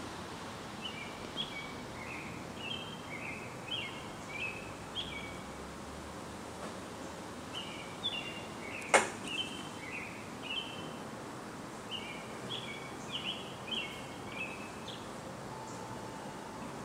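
Steady outdoor background noise with a small bird singing phrases of short, high, repeated chirps in three spells. A single sharp click about nine seconds in is the loudest sound.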